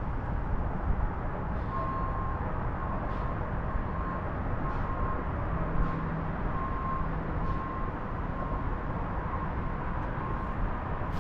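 A box truck's reversing alarm beeping about twice a second, starting about two seconds in, over the steady rumble of the truck's engine: the truck is backing up during a K-turn.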